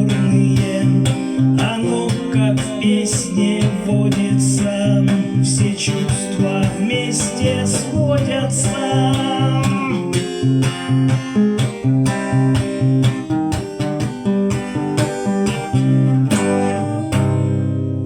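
Closing instrumental of a song: steadily strummed guitar over a bass line. About 17 seconds in it ends on one held chord that rings out and fades.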